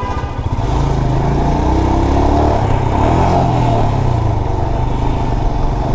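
Motorcycle engine running in traffic, its pitch rising twice as it accelerates, then settling.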